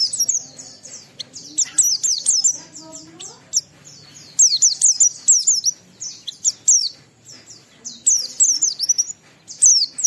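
A white-eye (pleci) singing in full song: long runs of rapid, high-pitched twittering chirps, each sliding downward, coming in bursts with brief pauses between them.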